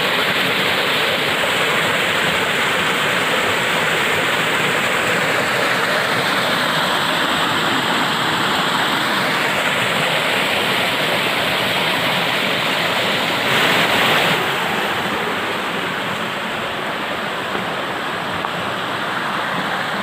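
Waterfall rushing steadily into a stream pool. There is a brief louder swell about fourteen seconds in, after which it is slightly quieter.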